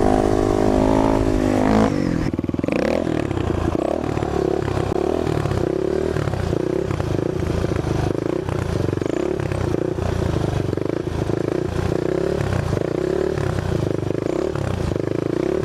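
Dirt bike engine running under load: a steady pitched note for the first two seconds, then rising and falling in a regular pulse about once a second as the throttle is worked.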